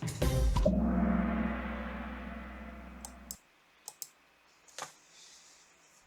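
Quiz-game music ending in one held chord that fades over about three seconds and then cuts off, followed by a few sharp clicks.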